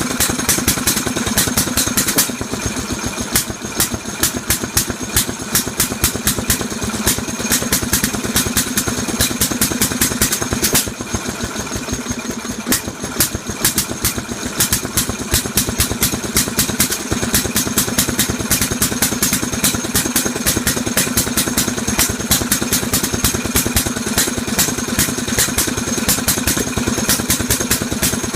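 Antique 6 hp marine inboard engine running, its firing strokes making a rapid, even clatter of knocks that eases slightly in loudness about eleven seconds in.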